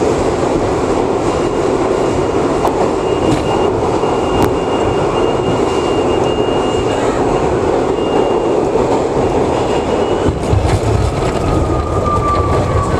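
R62A subway train running at speed, a steady rumble of wheels on rail. A thin high squeal sits over it through most of the stretch, and a short falling whine comes near the end.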